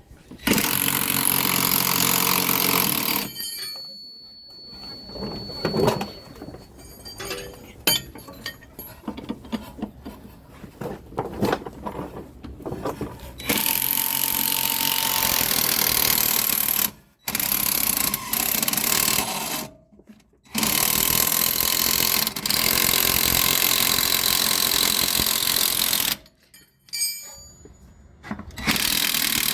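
A power wrench running in several long bursts of a few seconds each, with clanks and knocks of hand tools in between, while the bolts holding a rear shock absorber are taken out.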